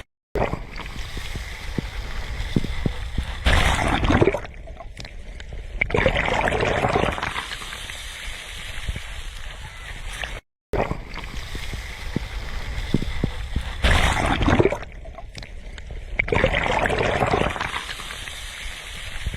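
Sea waves washing onto a shore, with two louder breakers surging in a couple of seconds apart and the same pair coming again about ten seconds later. The sound cuts out for a moment about ten seconds in.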